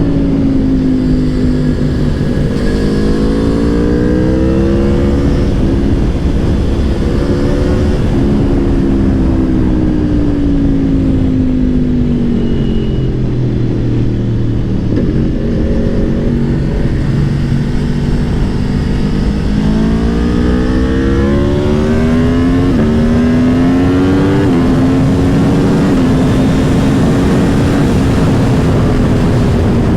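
Aprilia Tuono V4 Factory's V4 engine at speed, heard from on board. The revs fall away on the overrun with popping and banging, then climb again through several quick gear changes, over steady wind rush.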